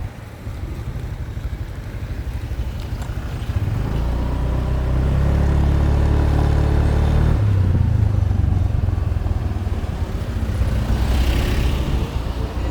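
Motorbike engine running on the move, getting louder between about four and seven seconds in, then easing off.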